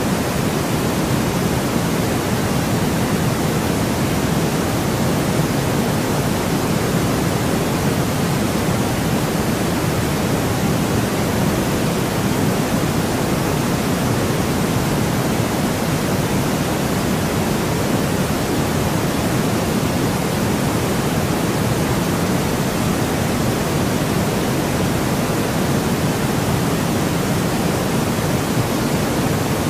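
Steady, unchanging synthetic noise played as a sleep sound, a constant hiss with its weight in the lower range, closer to pink than to pure white noise.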